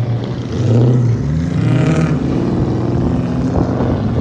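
Car engines running and revving, pitch rising about a second in and again near the middle as cars accelerate away.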